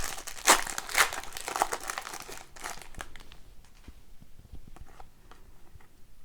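Wrapper of an Upper Deck Series Two hockey card pack crinkling and tearing as it is opened, loud for the first three seconds. After that, fainter clicks and rustles as the cards are handled.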